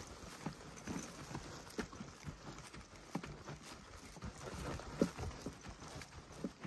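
Footfalls on a dirt track through woodland, a slow, uneven series of soft knocks.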